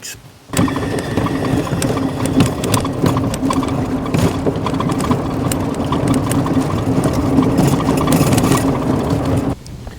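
A vehicle engine running steadily with a rattling clatter. It cuts in suddenly about half a second in and stops suddenly near the end.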